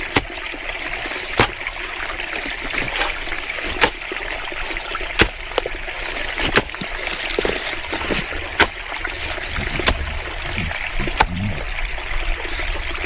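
Water trickling steadily in a small stream, with a shovel blade striking and chopping into hard, solid ground, a sharp knock every second or two.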